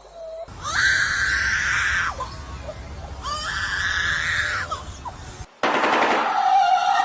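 A bird screeching twice, in two long, harsh calls. About five and a half seconds in, the sound cuts to a different, rapid rattling sound.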